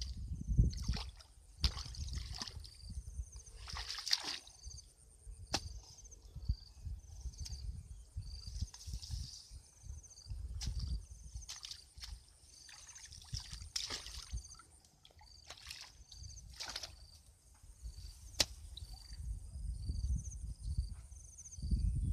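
Shallow water sloshing and splashing irregularly, with repeated short high chirps and a faint steady high buzz behind.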